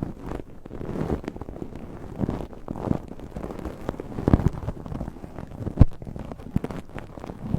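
Dried botanicals brushed and poked against the microphone, giving a close, irregular scratchy crackle with soft knocks. The sharpest knock comes at about six seconds in.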